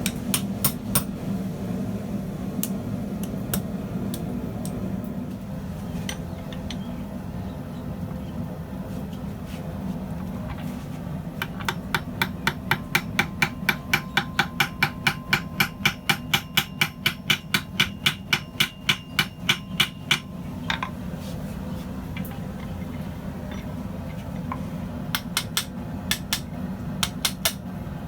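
Blacksmith's hammer striking hot steel rod on an anvil: a few scattered blows, then a steady run of about three ringing blows a second for several seconds in the middle, then a few more blows near the end. A steady low hum runs underneath.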